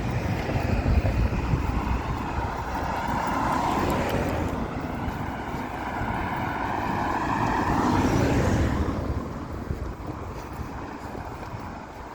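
Motor vehicles passing close by: engine and tyre noise swells and fades twice, loudest about four and then eight seconds in, and dies down near the end.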